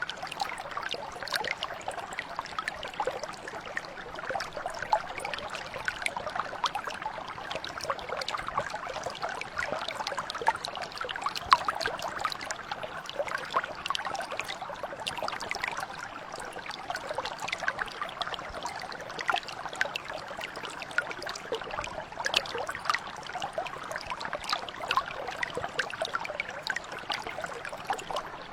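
Mountain brook flowing steadily, water trickling and splashing over stones with a dense patter of small splashes.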